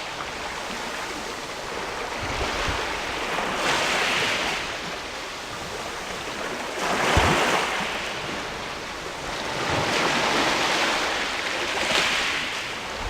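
Sea waves washing in against a rocky shore, each swell rising and falling back every two to three seconds, with a short low thud about halfway through.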